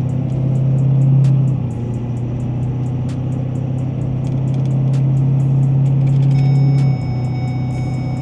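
Vehicle engine droning from inside the cab while driving. It pulls harder twice, easing off about a second and a half in and again near the end.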